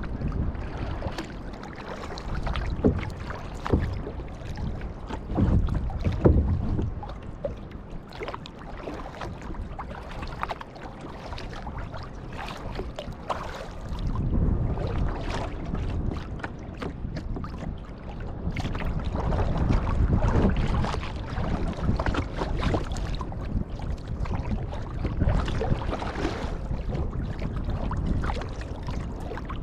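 Kayak paddle strokes splashing and dripping in open water at an uneven pace, with wind rumbling on the microphone underneath.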